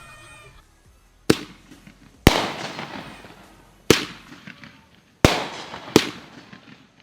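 Consumer aerial fireworks bursting overhead: five sharp loud bangs about a second apart, each dying away over about a second.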